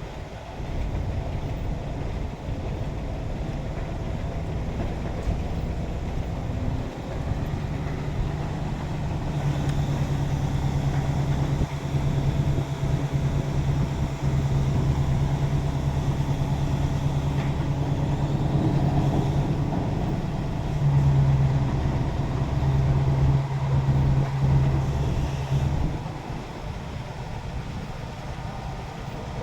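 Container truck's engine running with a steady low drone. It grows louder about a third of the way in, is loudest a little past two-thirds through, then eases off near the end.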